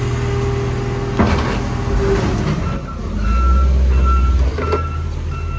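Heavy diesel machinery running at a scrapyard, with a clatter of metal about a second in; about three seconds in a reversing alarm starts beeping steadily, roughly one and a half beeps a second.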